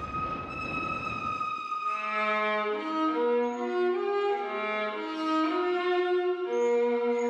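Background music of bowed strings, a violin line, playing slow held notes over a sustained low note. For the first second and a half a low noisy rumble runs under a single held high tone, then cuts off suddenly as the string melody begins.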